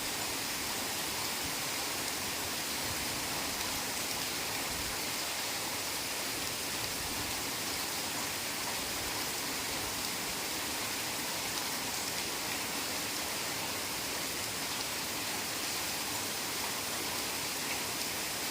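Heavy rain falling steadily, an even unbroken hiss with no single drops or thunder standing out.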